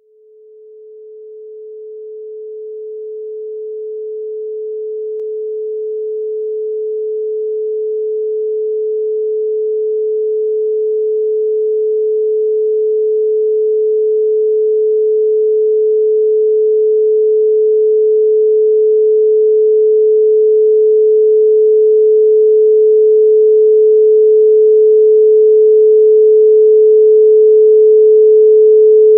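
A pure 432 Hz sine tone held steady in pitch, fading in from silence at the start and growing gradually louder.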